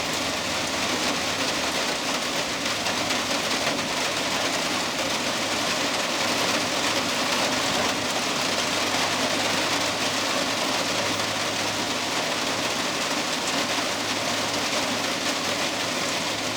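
Heavy rain falling steadily, a dense, even hiss that does not let up, with a faint low hum underneath.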